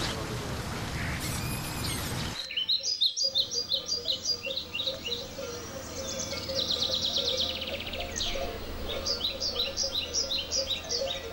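A steady rushing noise for about the first two seconds, then songbirds singing: repeated series of quick high chirps, with a fast trill near the middle.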